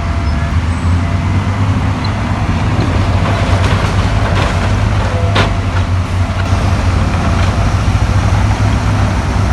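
Heavy diesel earthmoving machinery running steadily under load, with a deep rumble and a few metallic knocks, the sharpest about five seconds in.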